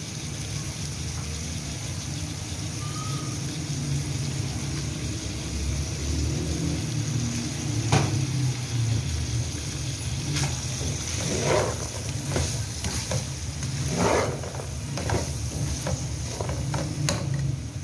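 Chicken and diced vegetables sizzling in a non-stick pot over a steady low hum. From about eight seconds in, a spatula scrapes and knocks against the pot several times as the carrots are stirred in.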